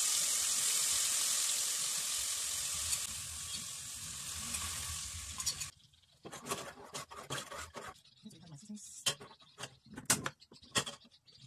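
Ingredients sizzling in hot palm oil in a deep aluminium pot, a loud hiss that slowly fades and then cuts off abruptly about halfway through. After that come scattered short clicks and scrapes of stirring in the pot.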